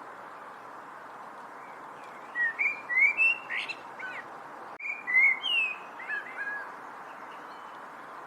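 A songbird singing two short phrases of quick chirps and slurred whistled notes that rise and fall, with a brief pause between them, over a steady background hiss.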